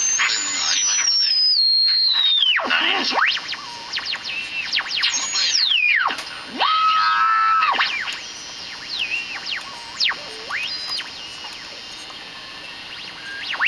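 Toshiba Uguisu GS five-tube superheterodyne radio squealing and whistling from its speaker: strong abnormal oscillation around the tuning point, typical of a failed coupling capacitor between the local oscillator and mixer and of failed bypass capacitors. A high tone steps down and plunges about two seconds in, followed by repeated whistles that swoop up and down, one held steady for about a second near the middle, with the swoops growing shorter and quieter in the second half.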